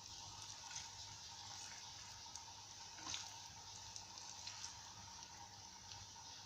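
Breaded quail eggs frying in hot oil: a faint steady sizzle with light crackles and one louder pop about three seconds in.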